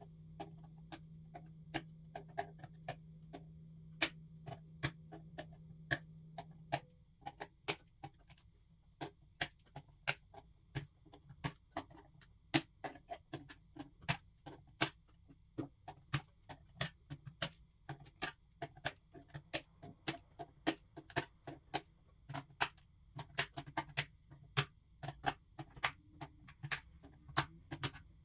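Irregular sharp plastic clicks and clacks, about two or three a second, from hands-on work on an IBM Model M keyboard's parts. A low steady hum stops about seven seconds in.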